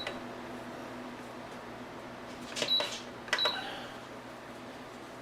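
Small metal parts clinking twice, about two and a half and three and a half seconds in, each click with a brief high ring, as screws and tools are handled during disassembly of a KitchenAid stand mixer. A faint steady hum stops partway through.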